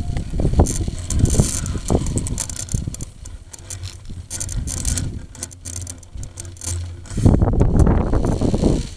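Strong gusty wind buffeting the microphone: a heavy rumble that surges and eases, with a big gust near the end. Light clicks and rattles come and go over it.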